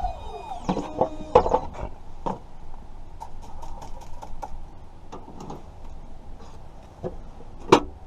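A string of sharp clicks and knocks of small hard objects being handled, uneven in spacing, with the loudest knock near the end.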